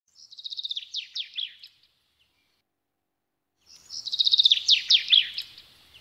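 A songbird's song phrase: a quick run of high notes stepping down in pitch, ending in a few down-slurred notes. The same phrase plays twice, about three and a half seconds apart, with dead silence between.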